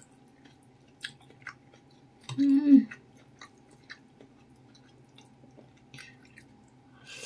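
Close-up mouth sounds of a person eating noodles and meatballs: chewing with soft wet clicks. A short hummed "mmm" comes a little over two seconds in, and a hissing slurp of noodles starts near the end.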